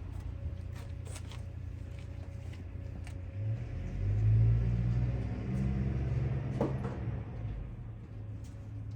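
A steady low mechanical hum, with a deeper rumble swelling up from about three and a half seconds in and easing off near seven seconds, and a few faint clicks.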